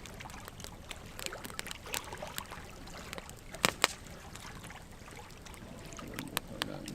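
Wood fire burning logs, crackling with irregular sharp pops over a soft steady hiss; two louder pops come close together about halfway through.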